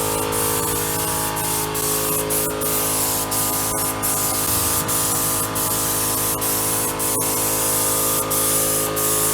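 Paint being sprayed onto a truck's grille: a steady spraying hiss, broken by many brief gaps, over a steady hum.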